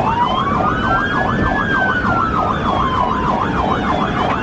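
Police sirens in pursuit: one in a fast yelp, about four sweeps a second, and another in a slow wail that rises and then falls. Steady road noise from the moving cruiser runs beneath them.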